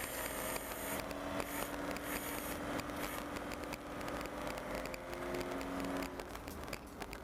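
Motorhome driving, heard from inside the cab: a steady engine and drivetrain hum that shifts up in pitch about five seconds in, over road noise and light crackling rattles.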